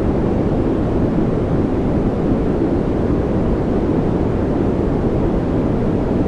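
Steady white-noise relaxation track: an even, unchanging deep shush, with most of its weight low and only a little hiss on top.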